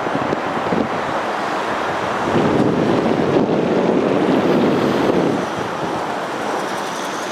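Wind blowing over the microphone high up on an exposed structure: a steady rushing noise that gusts louder for a few seconds in the middle.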